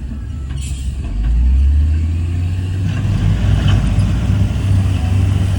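Heavy diesel earthmoving machinery running: a low engine rumble that swells about a second in and stays strong, with a few short knocks over it.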